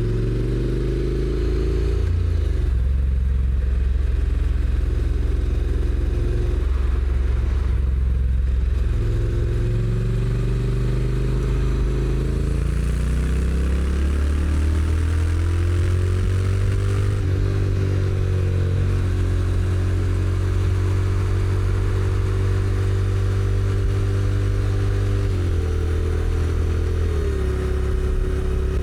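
Honda NC750X's 745 cc parallel-twin engine running on the move through its stock exhaust. The engine note climbs as the bike accelerates and steps down in pitch at several gear changes of the automatic dual-clutch (DCT) gearbox, over a steady hiss of road and wind noise.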